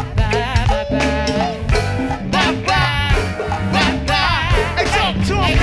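Live go-go band music: a dense, steady groove of bass and drums under a wavering, sliding melodic lead line.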